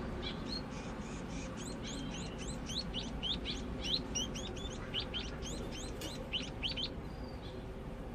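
A munia practising its song while learning to sing: a rapid run of short, high chirps, each sweeping down in pitch, several a second, stopping about seven seconds in.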